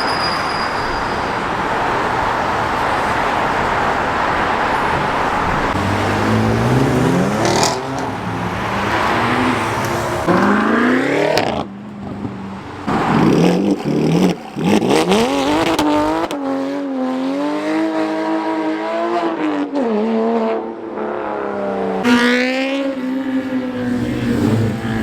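Cars driving off one after another with engines revving hard, their pitch climbing and falling several times and held high for a few seconds in the middle. For the first several seconds there is only a steady wash of traffic noise.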